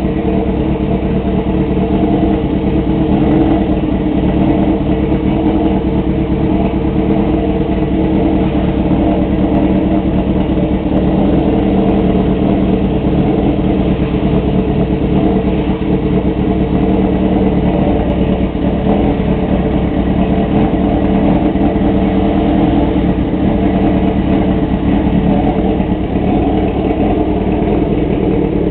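Honda CB400 Super Four's 400cc inline-four engine running at a steady idle through a straight-through aftermarket muffler, loud and even throughout.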